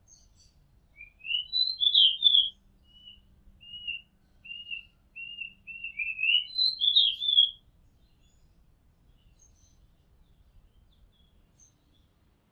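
Oriental magpie robin singing: a rising whistled flourish, then a run of short, even whistled notes, and a second rich flourish about six seconds in. Only a few faint distant chirps follow.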